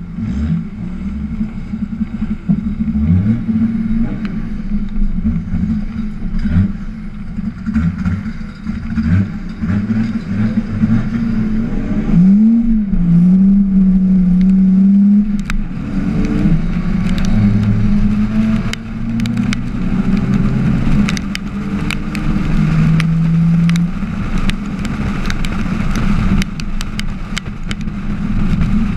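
Drift car's engine heard from on board, idling and revving in repeated short rises, then pulling away under load with the pitch climbing and dropping through the gears. Scattered sharp clicks come through in the second half.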